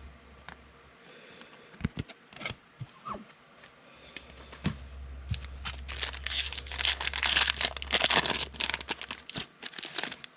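Trading-card pack wrapper being torn open and crinkled: a few sharp crackles at first, then a dense run of crinkling about two-thirds of the way in.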